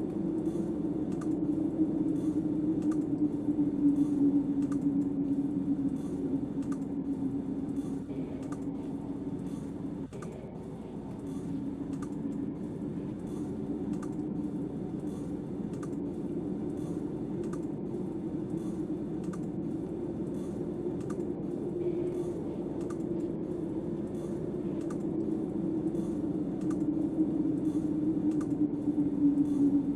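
Steady low snowstorm wind that slowly swells and eases, with light, evenly spaced clicking running through it.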